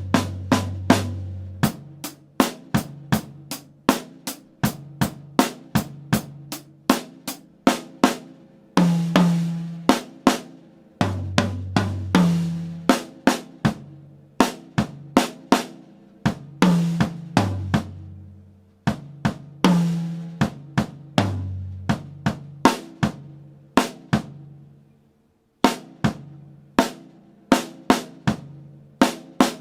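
Drum kit played in a steady run of strokes at 80 bpm around the snare, toms and bass drum, with a cymbal crash ringing out every few seconds. The playing breaks off briefly about 25 seconds in and then picks up again.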